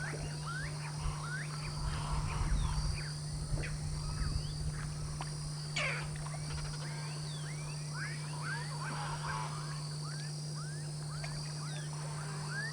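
Outdoor animal chorus: many short chirps sweeping upward in pitch, repeating throughout, with one louder sweep about six seconds in, over a steady high-pitched insect-like whine and a steady low hum.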